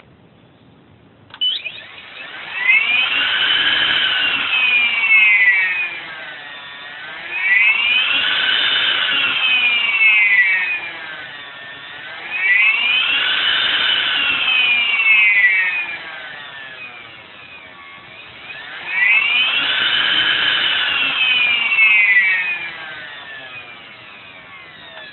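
Scorpion motor whining as it is run up and back down four times. The pitch climbs and falls with each run-up, every cycle lasting about five seconds. The noise is taken to be a fault.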